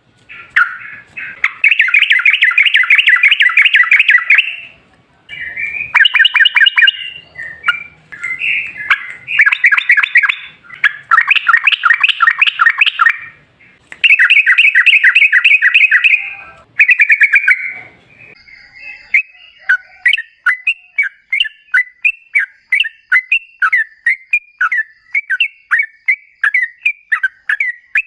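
Yellow-vented bulbul singing in long rolling runs of rapid, bubbling chatter, each burst lasting a few seconds. Past the middle it gives way to a string of separate sharp notes at about three a second.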